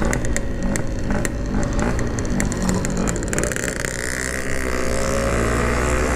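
Yamaha RX-King's 135cc single-cylinder two-stroke engine running under way through an aftermarket standard-look exhaust. There are scattered sharp ticks over the first three seconds, and the engine's pitch climbs steadily through the last couple of seconds as it accelerates.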